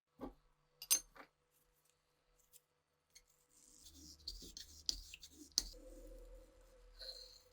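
Small hard parts clicking, with a sharp knock about a second in the loudest, then from about three and a half seconds an uneven scraping with a low hum beneath and another click near the end.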